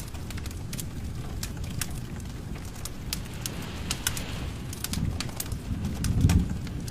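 Wood fire burning in a fireplace, crackling with frequent sharp pops over a low rumble, with a louder low swell near the end.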